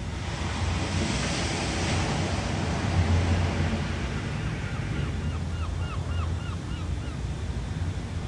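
Ocean surf: a wave breaks and washes in with a hiss about a second in, over a steady low rumble of sea. Midway through, a quick run of about ten short, high, falling chirps sounds over the surf.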